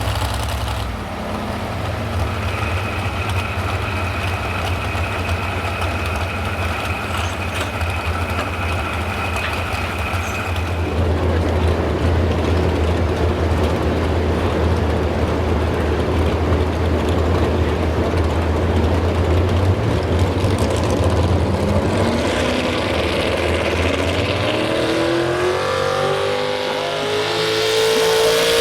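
Modified 4x4 pulling truck's engine running hard under load on a pull. Near the end its pitch climbs steeply as it revs up.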